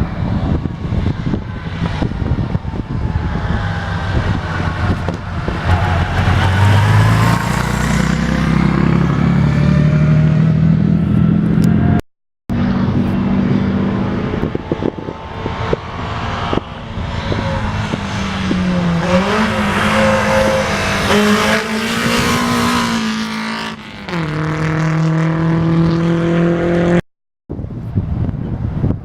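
Vintage racing car engines passing at a chicane, the pitch dipping as they slow and climbing as they accelerate away. The sound cuts out briefly twice, once just before halfway and once near the end.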